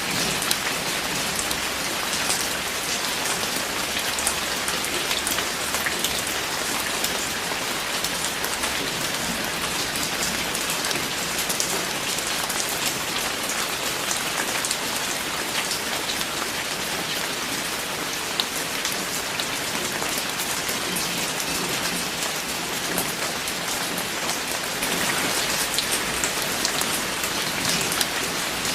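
Steady rain falling, with many individual drops pattering on a surface; the rain grows slightly heavier near the end.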